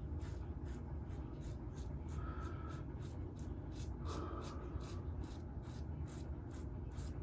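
Shaving brush swirled over lathered skin in quick, even strokes, about three to four a second, making a soft wet scrubbing sound.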